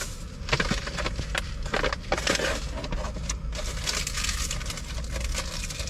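Rustling, crackling handling noise with scattered sharp clicks, over a low steady rumble.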